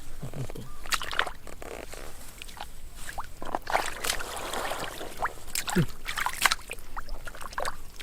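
Shallow water sloshing and splashing irregularly, with scattered short splashes and knocks, as it is disturbed by someone working in it.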